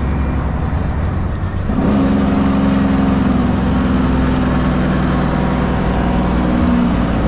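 Straight-piped 12.7-litre Detroit Series 60 inline-six diesel in a Freightliner truck, running on the road. About two seconds in, the exhaust note gets louder and settles into a steady drone as the engine pulls.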